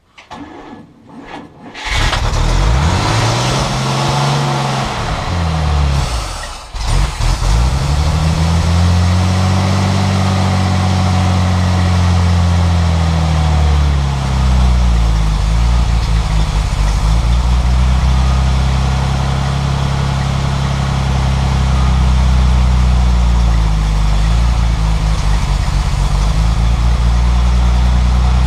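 The Dodge's newly installed engine on its first start: brief cranking, then it catches about two seconds in and revs up. It nearly dies around six seconds, then picks up again and keeps running, its revs rising and falling.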